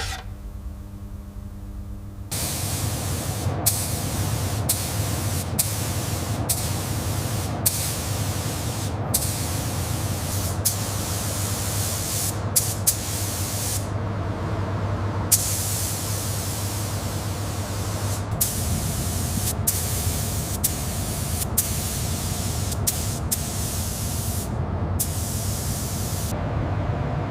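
A spray hissing in repeated bursts of one to two seconds with short breaks, over a steady low hum. For the first two seconds only a lower, steady humming sound is heard.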